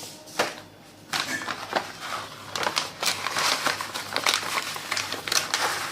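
Crinkling, rustling handling noise with many sharp crackles, starting with a single click and becoming dense about a second in.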